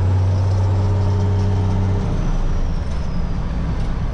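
Semi truck's diesel engine pulling away with its empty grain trailer, running steadily and then dropping to a lower pitch about halfway through as the revs fall.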